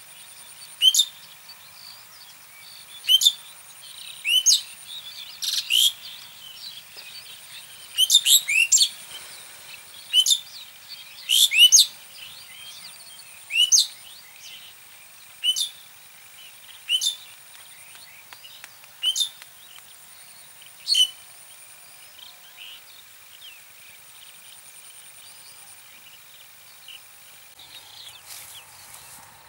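A bird calling over and over: loud, sharp notes that fall steeply in pitch, one every second or two, some in quick pairs, stopping about two-thirds of the way through.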